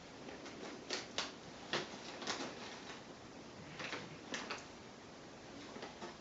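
Cats getting at freeze-dried treats from an open bag: a handful of short, quiet crackles and clicks, in one cluster about a second in and another just before the middle.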